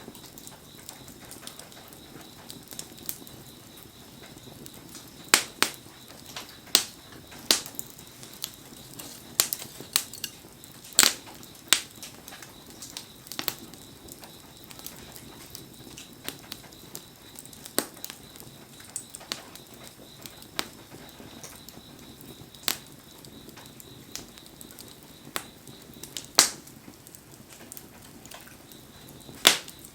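Wood bonfire crackling: irregular sharp pops and snaps every second or two over a steady hiss.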